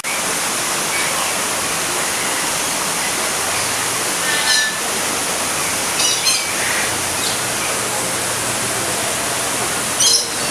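Steady rushing water, with short bird calls breaking in three times: about four and a half, six and ten seconds in.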